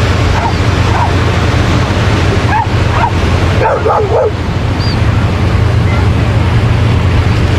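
Surf washing steadily on the beach, with dogs barking and yipping now and then and a quick run of barks about four seconds in.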